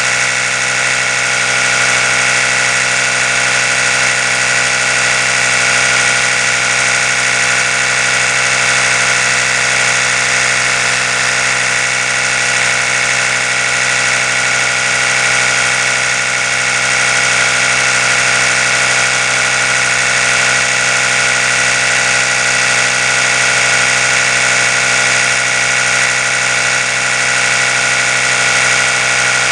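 Oral-B electric toothbrush running continuously: a steady, even motor hum that does not change.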